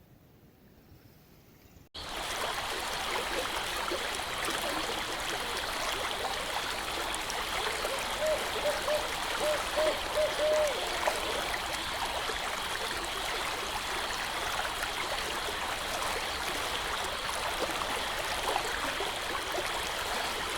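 Shallow creek water running and trickling steadily, starting abruptly about two seconds in. A short run of brief higher notes sounds near the middle.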